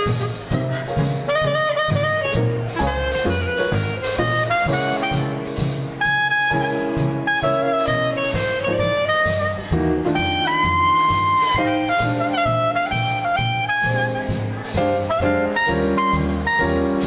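Small-group swing band playing an instrumental number live: saxophone and trumpet lines over piano, a bass moving note by note and a steady drum beat. Near the middle a horn holds one long note.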